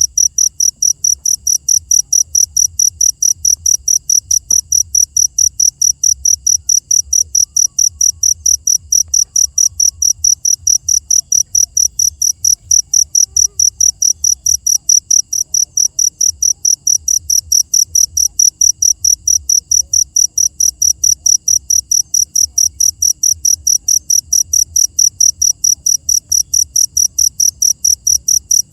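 Cricket chirping steadily, a high-pitched, evenly repeated chirp at about three or four chirps a second.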